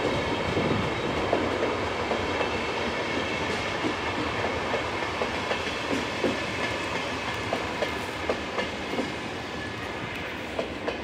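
VR double-deck passenger coaches rolling past on the track: a steady wheel-and-rail rumble with scattered clicks over rail joints, slowly fading as the train moves away.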